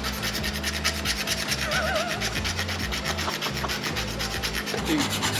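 Rapid, regular rasping strokes, about ten a second, like filing or sanding in shop work.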